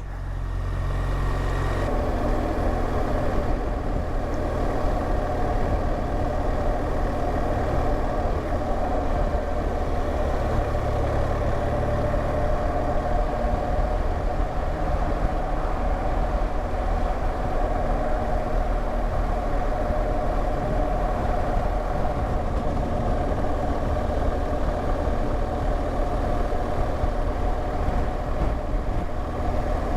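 BMW R1200GSA flat-twin boxer engine running steadily while riding at a constant pace.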